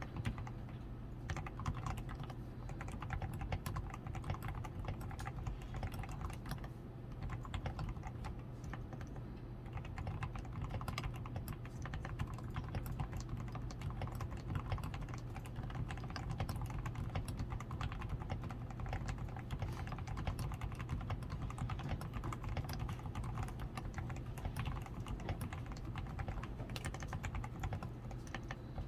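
DAREU A87 Pro mechanical keyboard, its switches fully lubed with Krytox 105, PCB tape-modded, with foam added and XDA keycaps fitted, being typed on continuously: a quick, dense stream of soft keystrokes over a steady low hum.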